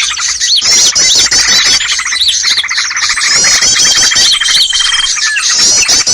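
Dense, loud chorus of many small birds chirping, trilling and chattering over one another, a bird-lure (pikat) recording meant to draw small wild birds in. A steady high whistle is held for about a second and a half midway.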